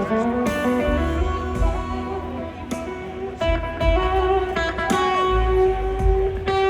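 A live blues band plays an instrumental passage, with an electric guitar holding sustained notes, one bent up and back down, over bass and drums.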